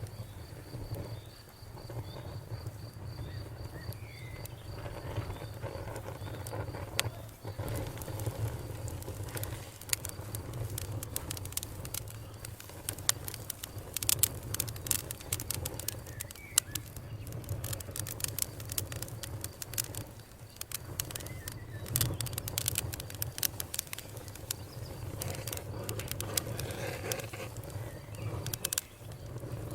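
Campfire burning: wood crackling and popping in irregular sharp snaps over a steady low rumble of the flames.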